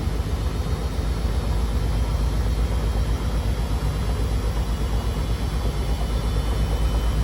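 Beko WMD 46160 washing machine spinning at speed: a heavy, rapidly pulsing low rumble from the drum, with a faint high motor whine above it.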